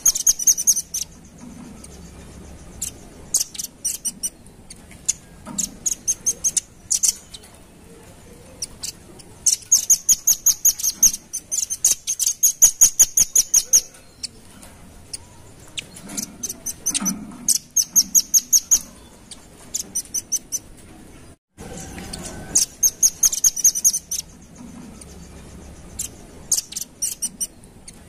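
Velvet-fronted nuthatch calling: rapid dry trills of high, sharp chips, about ten a second, in repeated runs lasting from under a second to a few seconds. The longest run comes around the middle. A brief break about 21 seconds in is followed by the same sequence starting over.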